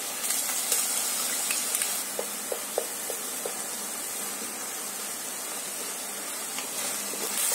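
Onion and ginger-garlic paste sizzling steadily as it fries in oil in a kadai, stirred with a spatula that gives a few light scrapes and taps about two to three seconds in.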